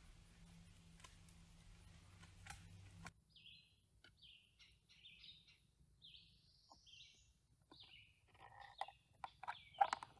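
Small birds chirping in short, repeated high chirps, starting about three seconds in, with a few sharper clicks near the end; before the chirps there is only a faint low hum.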